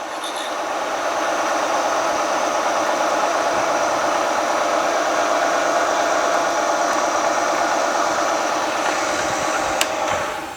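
Milling machine drilling into a steel crankshaft to make holes for Mallory heavy metal balancing slugs: a steady grinding machine noise that builds over the first couple of seconds, holds, then stops abruptly near the end.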